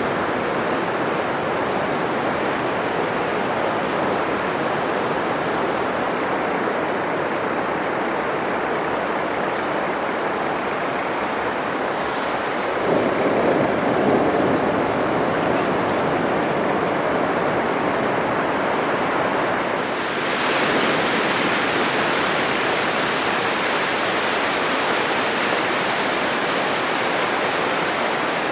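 Atlantic Ocean surf breaking on a sandy beach: a continuous rush of waves. About halfway through a wave swells louder, and a few seconds later the wash turns brighter and hissier.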